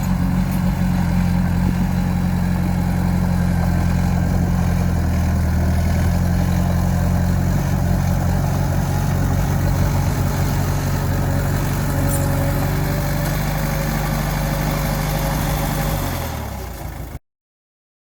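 Heavy machine's diesel engine running steadily at a low pitch. Near the end its pitch drops and it fades, then the sound cuts off abruptly.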